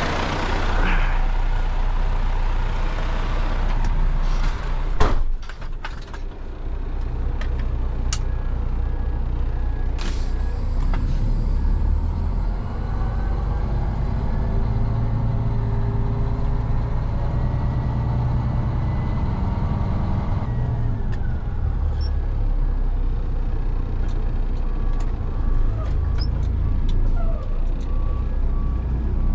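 Truck engine running steadily with a low rumble, with a sharp knock about five seconds in and a few lighter clicks later on.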